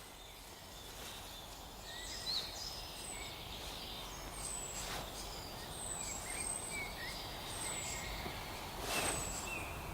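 Forest ambience with small birds calling: a thin, very high falling note repeated about once a second, and other short chirps among it. A soft rustle comes twice, about halfway through and near the end.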